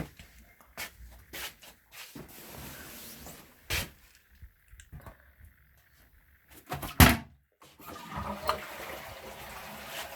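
A string of knocks and clicks, the loudest about seven seconds in, between stretches of rustling noise.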